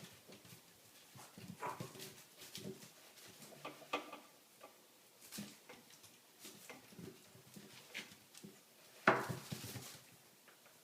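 Puppies whimpering and yapping in short, scattered sounds, with a louder, noisier burst a little after nine seconds in.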